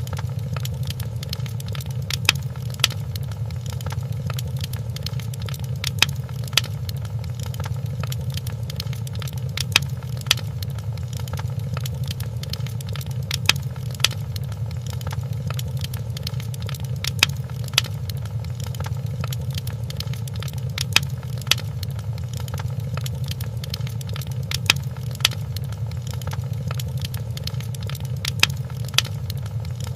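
Fireplace fire crackling: a steady low rumble of burning with sharp pops. The louder pops come in pairs about half a second apart, repeating evenly every few seconds, like a short loop.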